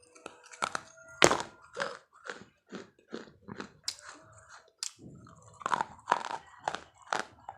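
A series of irregular, close crunching sounds, about two a second, some louder than others.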